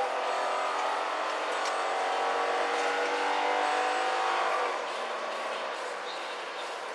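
Police cruiser's engine running hard under acceleration, heard from inside the cabin over tyre and road noise. It eases off about four and a half seconds in, leaving mostly road noise.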